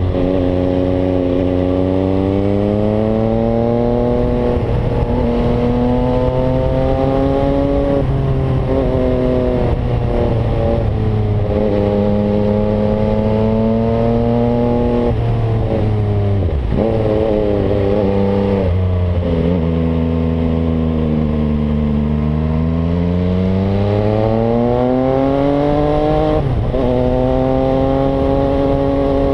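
MV Agusta Brutale 800's three-cylinder engine through a Zero exhaust, ridden on the road: the revs climb in each gear and drop sharply at the gear changes several times. Later the revs fall away to a low note and then build up again.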